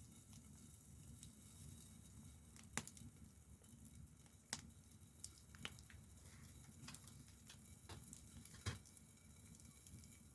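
Faint crackling of a wood campfire: a handful of sharp pops spaced irregularly over a quiet, low, steady rumble.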